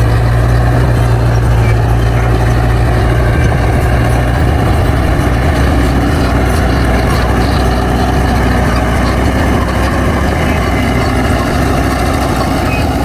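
Bulldozer's diesel engine running steadily, with a strong low hum.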